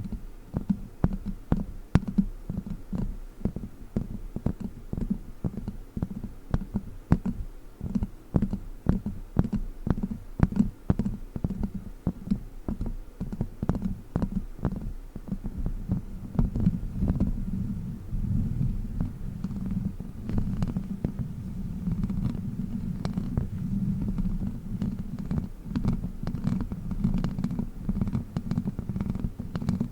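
Plastic witch finger tapping and rubbing directly on a microphone, giving muffled low thuds and rumbling with quick irregular clicks. The taps are densest in the first half, and it turns into a smoother rubbing rumble later on.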